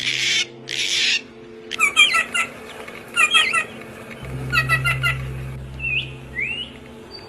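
Two harsh, raspy bird squawks in the first second, then a songbird singing the same short chirping phrase three times, followed by two quick rising whistles near the end. A faint steady low hum runs underneath.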